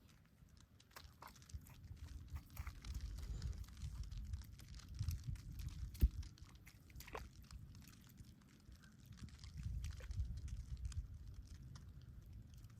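Irregular crunching in wet, sticky snow, with uneven clicks over a low rumble.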